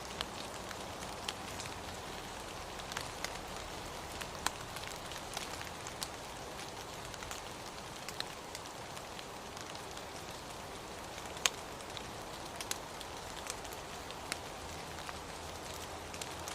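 Steady rain falling, an even hiss with individual drops tapping sharply and irregularly close by; one tap about two-thirds of the way through stands out as the loudest.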